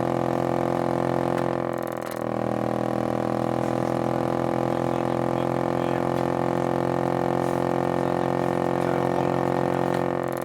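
2000 Pontiac Grand Am's heater vent motor spinning out of control with a loud, steady whine made of many tones. The whine dips briefly about two seconds in, then holds steady again.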